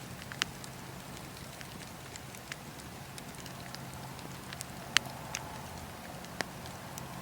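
Wood fire burning in a fireplace: a steady low rumble with scattered sharp crackles and pops, the loudest about five seconds in.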